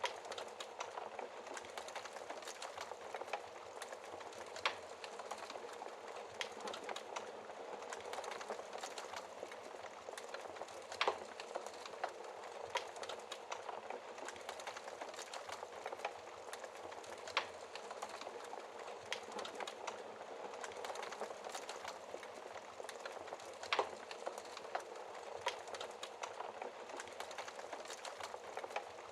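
Wood fire burning with a steady soft hiss and frequent small crackles, with a few sharper pops every several seconds.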